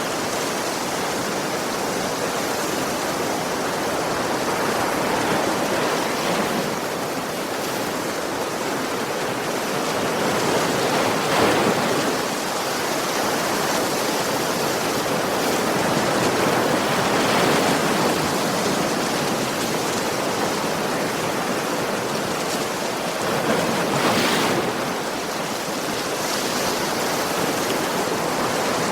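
Ocean waves breaking and washing on a beach, a steady rushing wash that swells as individual waves break, about three times.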